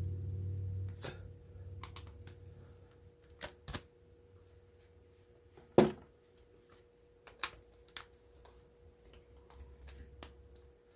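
Scattered light clicks and taps of small metal scrap parts and hand tools being handled while pulling copper out of a motor, with one sharper knock about six seconds in.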